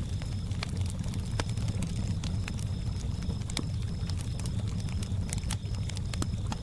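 Campfire crackling with irregular sharp pops, over a steady low rumble of lake water. Crickets chirp throughout in a high, evenly pulsing trill.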